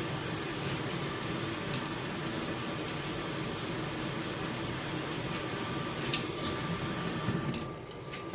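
Kitchen tap running steadily into a sink, a continuous rush of water that shuts off near the end.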